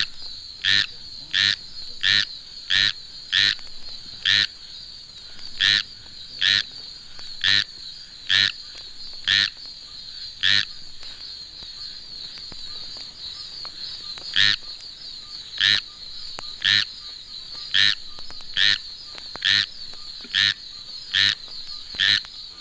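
Squirrel tree frog (Hyla squirella) giving its rain song: a series of short, raspy calls repeated about once a second, with a pause of a few seconds in the middle. A steady high-pitched hum runs underneath.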